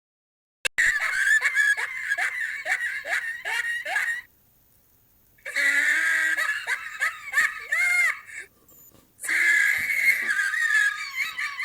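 Monkeys chattering and screeching in rapid, high-pitched calls, about three or four a second, in three bouts separated by short pauses, starting about a second in.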